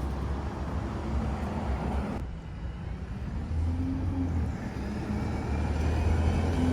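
Bus diesel engine running close by, a steady low rumble with a faint engine hum that swells and fades. The hiss in the upper range cuts off suddenly about two seconds in.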